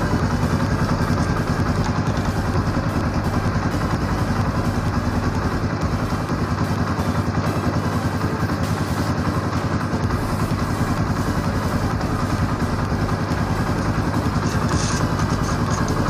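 Motorcycle engine idling steadily with a fast, even pulse, while its drive chain is being oiled. A short hiss comes near the end.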